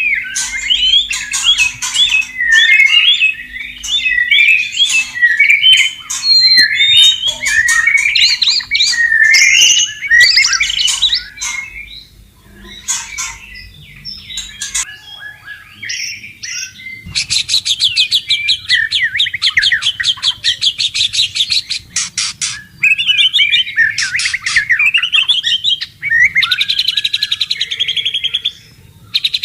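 White-rumped shama (murai batu) singing: a rich run of varied whistled phrases, a lull with a few scattered notes around the middle, then a long fast series of rapidly repeated notes and more varied phrases.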